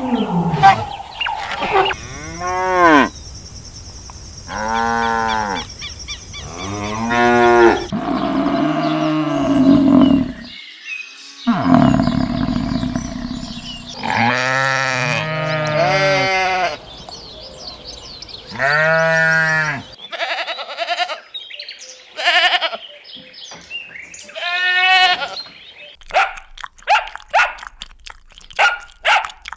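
Cattle mooing: a series of drawn-out calls of about a second each, each rising and falling in pitch, repeated through most of the stretch. Near the end they give way to a quick run of short clicks.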